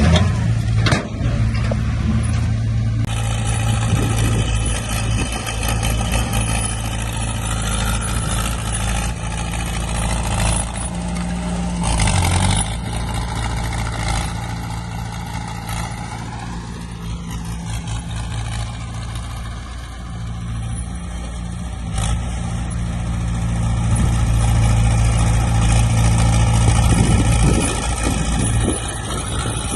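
Heavy diesel earthmoving machinery running with a steady low engine drone. The engine speed shifts now and then, and it grows louder for a few seconds near the end.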